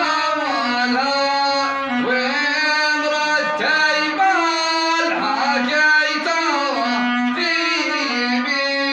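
Bedouin rababa, a single-string spike fiddle, bowed in a slow melody of held notes that slide from pitch to pitch.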